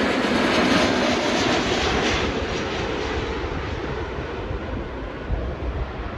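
Jet airliner on landing approach passing close by, its engine noise a broad rush that fades steadily as it moves away.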